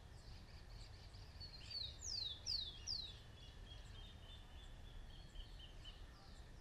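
Birdsong: three quick falling whistles about two seconds in, then a run of short, high, repeated notes. A faint steady low rumble lies underneath.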